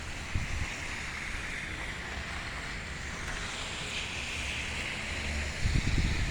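Wind blowing on the microphone over a steady outdoor hiss, with low rumbling gusts about half a second in and again near the end.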